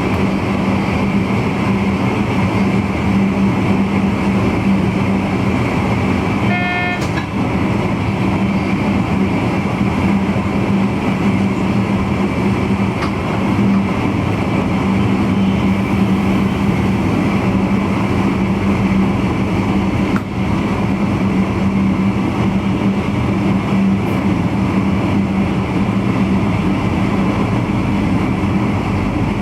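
Steady running noise in the cab of a VIRM double-deck electric intercity train, with a constant low hum. About seven seconds in, a brief horn-like tone sounds for about half a second.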